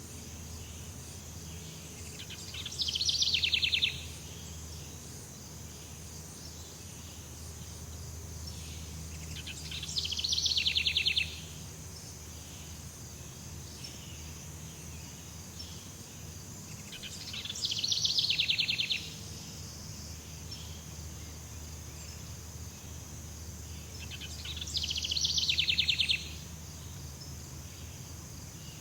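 Jungle ambience: a steady high-pitched insect drone. Four times, about every seven seconds, a loud, rapidly pulsing trill swells for a second or so and then cuts off.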